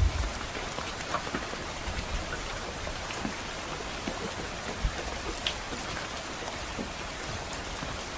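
Steady rain falling on a roof, with scattered sharp crackles of a wood fire in a fireplace. A low rumble of distant thunder dies away at the very start.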